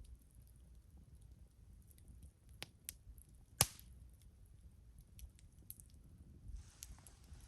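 Wood campfire crackling, with scattered small pops and one sharp, loud pop about three and a half seconds in. A soft rustle near the end.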